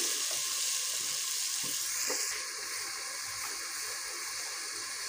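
Onion-and-tomato masala frying in hot oil in an aluminium pot: a steady sizzle with a few faint ticks, easing slightly about two seconds in.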